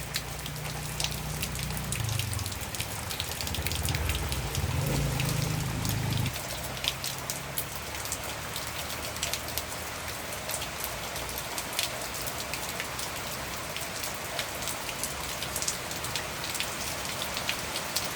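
Steady rain falling, with many single drops ticking sharply on a nearby surface. A low rumble runs under it for about the first six seconds, then drops away.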